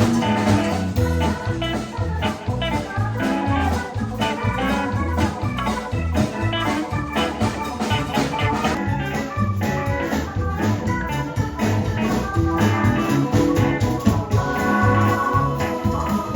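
A band playing music with a steady beat, bass notes pulsing underneath held keyboard and guitar notes.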